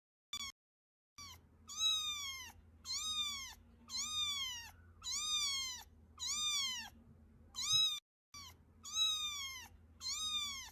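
A cat meowing over and over, about eight clear meows each rising and then falling in pitch, with a short clipped meow at the start.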